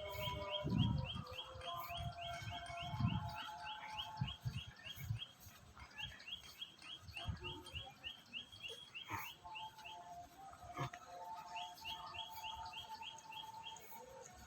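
Birds chirping: three runs of quick, evenly repeated high chirps, about five a second, with some lower whistled notes between them. Low thumps sound in the first few seconds.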